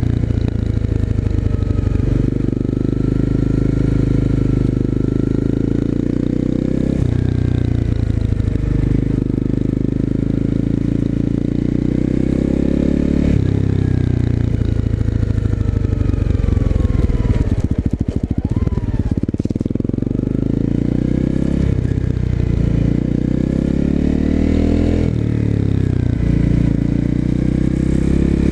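250cc single-cylinder four-stroke dirt/motard motorcycle with an aftermarket exhaust, under way: the engine note climbs with the revs and drops at each gear change, several times over, with a short stretch of rough, uneven running in the middle.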